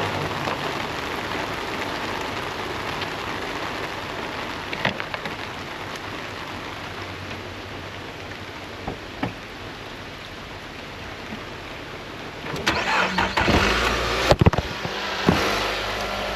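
Heavy rain falling steadily with a few light knocks, then about twelve seconds in a car engine cranks and starts, with a couple of sharp knocks, and keeps running.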